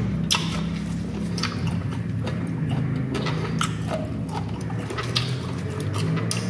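A person biting into and chewing a whole juicy peeled pineapple at close range, making irregular moist crunching clicks. A steady low hum runs underneath.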